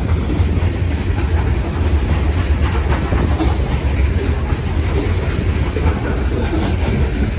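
Long loaded coal train's hopper cars rolling past, their wheels on the rails making a steady, deep rumble.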